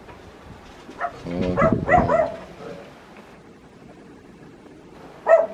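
Dog barking: a quick run of barks about a second in and a single bark near the end, over faint wind noise.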